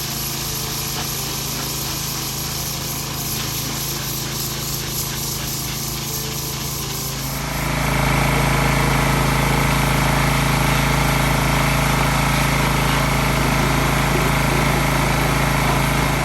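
Pressure washer running and spraying, a steady machine hum with a fast pulsing beat over the hiss of the water jet, growing clearly louder about halfway through.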